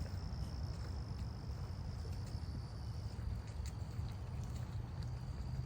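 Steady high-pitched insect trill, typical of a cricket, that drops slightly in pitch about three seconds in. It sits over a low rumble, with a few faint ticks.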